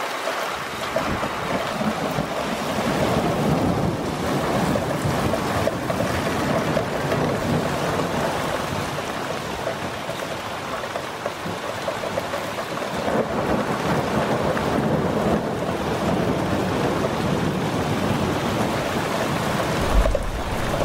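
Heavy storm rain and wind, a dense rushing noise that swells and eases, with a brief low thump near the end.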